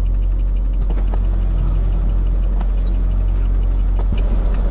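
Truck engine idling: a steady low rumble, with a few faint clicks.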